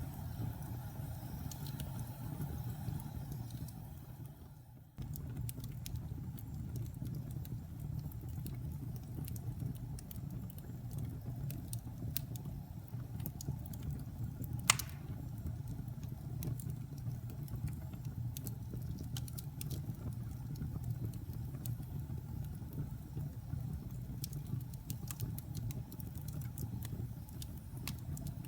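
Wood fire burning in a fireplace: a steady low roar with scattered small crackles and one loud, sharp pop about halfway through. The sound fades and then cuts back in abruptly about five seconds in.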